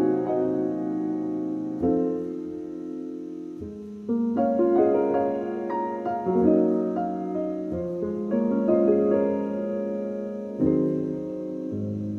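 Background piano music: soft, slow chords struck every couple of seconds and left to ring.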